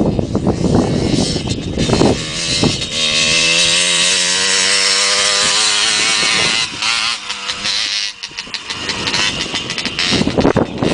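Motocross bike engine running hard: rough and uneven at first, then held at a steady high-revving note with a slight waver from about two to seven seconds in, then choppy again as the throttle comes on and off.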